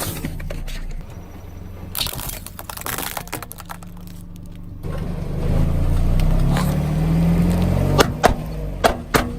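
Car engine running, growing louder from about halfway with a slight rise in pitch as it pulls forward, then a few sharp cracks near the end.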